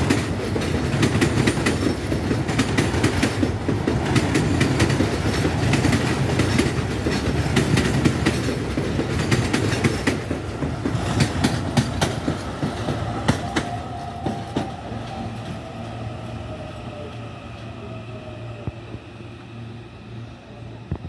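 Electric multiple-unit commuter train passing close by: a steady rumble with its wheels clacking rapidly over the rail joints. It grows fainter after about twelve seconds as the train moves away, and a faint falling whine comes through in the second half.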